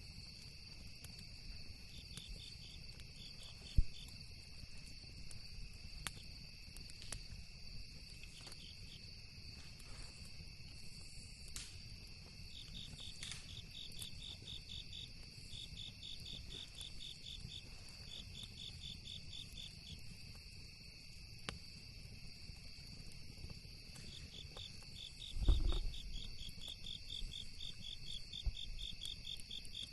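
Night insects chirping: a steady high drone with repeated bursts of fast, even pulses. Scattered sharp pops of a crackling campfire run through it, one sharp crack about 4 seconds in and a low thump near the end.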